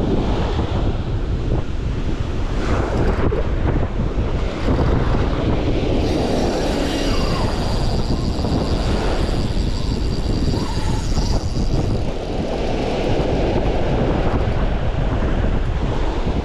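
Wind buffeting the microphone over the rumble of surf on the beach, a steady loud roar with no clear breaks.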